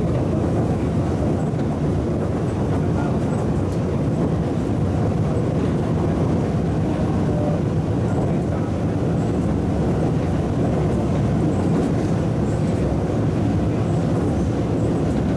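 Steady running noise inside an MTR MLR (Metro-Cammell) electric multiple unit travelling at speed: a continuous rumble of wheels on rail and traction motors. The uploader notes that a traction motor on this train was broken, which made the train's rhythmic beat (拍子) stand out.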